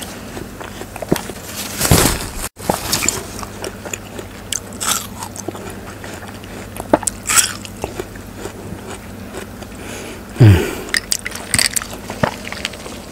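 Close-miked eating sounds of a person biting and chewing watermelon: wet crunches and mouth clicks that come every couple of seconds.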